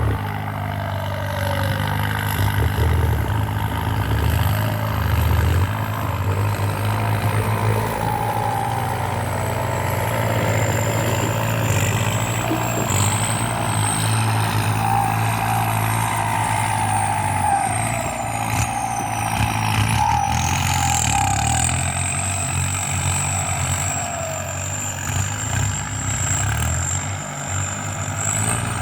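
Kubota M8808 tractor's turbo-diesel engine working steadily under load while pulling a disc plough through soil. A high turbo whistle rides over the engine, dipping and rising again about two-thirds of the way through.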